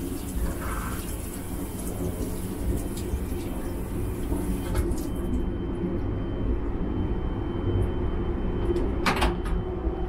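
Steady low rumble of the Sunrise Izumo sleeper train running, heard from inside the carriage, with a few light clicks and a sharper knock about nine seconds in. A high hiss stops suddenly about five seconds in.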